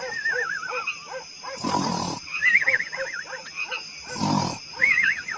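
Recorded animal-like roars, a short loud one about every two and a half seconds, with warbling whistle-like tones and a steady high tone in between, in the manner of sound effects.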